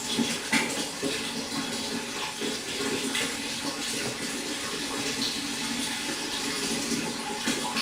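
Pond water running and splashing steadily, with many small irregular splashes and trickles.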